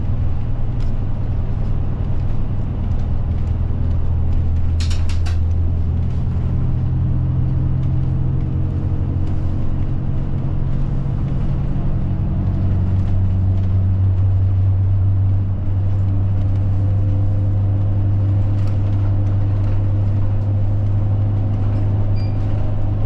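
Route bus engine running while the bus drives, heard from inside the passenger cabin, with its engine note shifting a few times as the bus changes speed. A short rattle comes about five seconds in.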